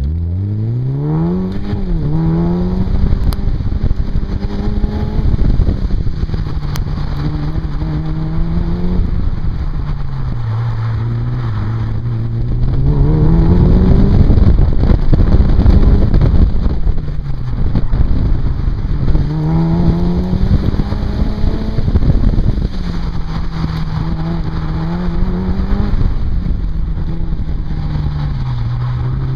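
Mitsubishi Lancer Evolution's turbocharged four-cylinder engine revving up and falling back again and again as the car is driven hard through an autocross course. A heavy low wind rumble comes from the microphone mounted outside on the car's flank.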